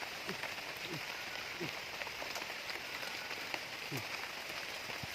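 Steady rain falling, an even hiss with scattered sharp drop ticks. A few short sounds falling in pitch come through it about a third of a second, one second, a second and a half and four seconds in.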